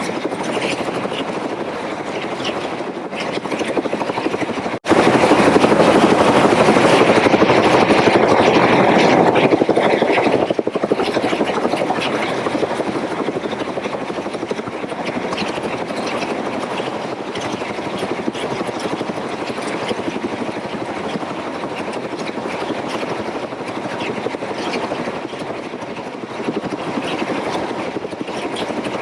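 Helicopter running in flight, a steady rotor and engine drone. About five seconds in it breaks off sharply and comes back louder for several seconds before settling back to a steady level.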